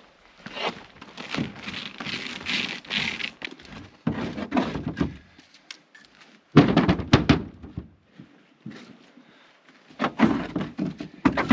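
Pieces of wood and bark being handled and dropped, heard as irregular clusters of thuds, knocks and crackling. The loudest burst comes about seven seconds in.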